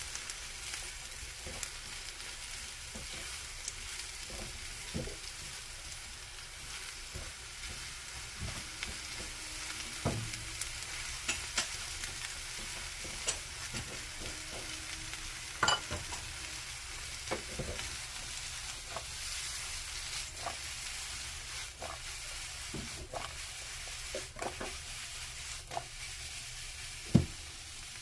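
Food frying in oil in a pan, with a steady sizzle and scattered knocks and scrapes from stirring, the loudest knock near the end.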